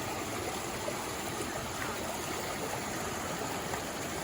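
Steady rush of running water from rain-swollen floodwater.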